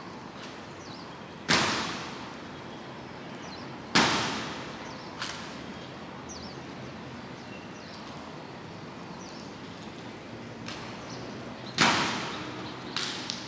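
Sharp impacts from a navy honor guard's ceremonial drill: three loud strikes at uneven gaps, each ringing on briefly, with a few fainter clicks between.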